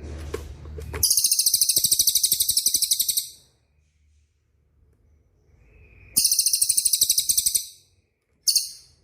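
Songbird's fast rolling trill, the 'rol speed' type of song, heard as a rapid run of high notes three times: two runs of about two seconds and a brief burst near the end.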